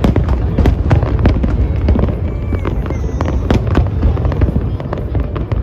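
Fireworks display: rapid, overlapping bangs and crackles over a continuous low rumble of bursting shells.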